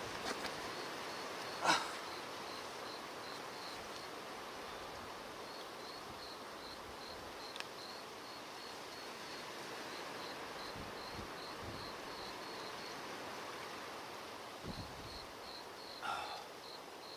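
An insect chirping in a steady high-pitched pulse, about three chirps a second, over a steady background hiss. A sharp knock comes about two seconds in and another near the end.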